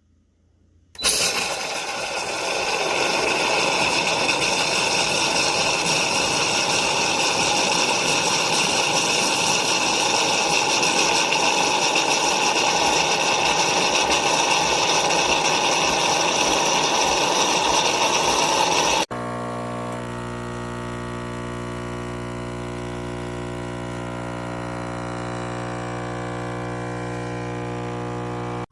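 KOTLIE espresso machine running. A loud hiss with steady whining tones starts about a second in and cuts off abruptly, followed by a quieter, steadier buzzing hum.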